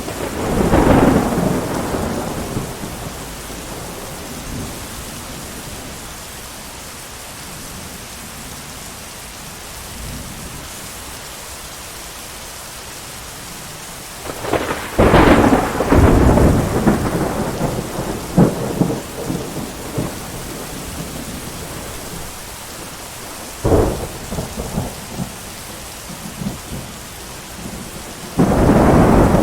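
Steady heavy rain with thunder: a rumble at the start, a long crackling peal about halfway through, a sharp clap a few seconds later, and another rumble near the end.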